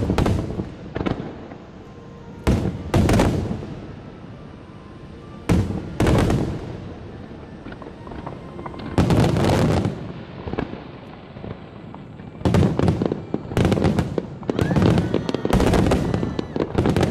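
Japanese starmine firework barrage bursting overhead. Pairs of loud booms with crackling tails come every few seconds, then a dense rapid volley of bangs builds over the last several seconds.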